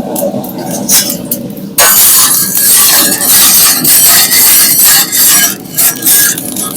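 Food frying in a hot pan: a few clinks of a utensil, then a loud sizzle that starts suddenly about two seconds in and keeps going, dipping briefly now and then.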